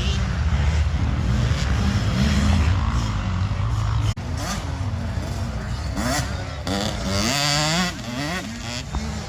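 Dirt bike engines running, a steady low drone that is cut off abruptly about four seconds in. After the break, engines rise and fall in pitch under a mix of voices.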